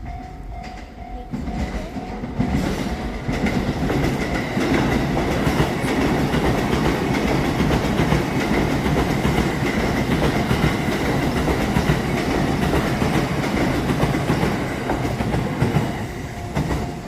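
Limited express train passing through a level crossing at speed: a loud, steady rush of wheels on rails with clacking over the rail joints, building about a second in and easing off near the end. The crossing's warning bell keeps ringing beneath it, clearest at the start.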